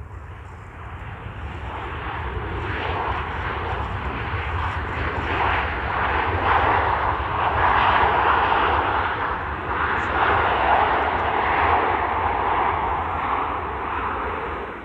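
Airliner engines passing close, the noise building over several seconds to a loud rush and then cutting off suddenly near the end. A steady low rumble of wind buffeting the microphone runs underneath.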